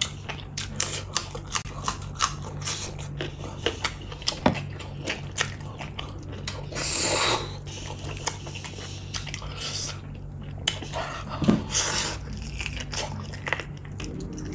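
Close-miked wet chewing, biting and lip smacks as beef bone in chilli gravy is eaten by hand, with one louder rushing sound lasting under a second about seven seconds in. A low steady hum lies under it.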